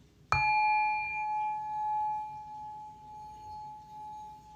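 A heart chakra sound bowl is struck once, about a third of a second in, and left to ring. The tone is clear and sustained with several overtones, and it fades slowly with a gentle wavering pulse.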